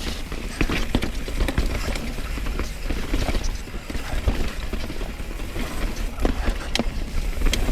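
Mountain bike descending a rough, rocky trail, its frame and drivetrain rattling and knocking irregularly as the tyres hit rock, over a steady low rumble of wind on the camera microphone.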